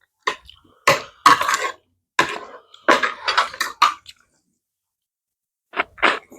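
Close-miked eating of a bowl of noodles with cucumber and onion: a run of short noisy slurps and chews with bowl and utensil clinks, stopping about four seconds in, then a couple of short sharp sounds near the end.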